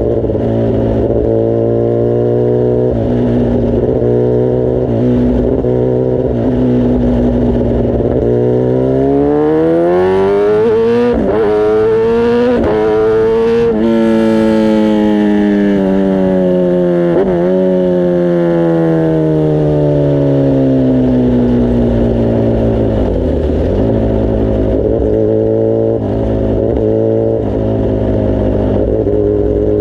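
Kawasaki ZX-10R inline-four engine and exhaust on the move: it holds steady revs, then accelerates for several seconds with brief breaks at gear changes, and the revs fall away slowly for about eight seconds before settling steady again.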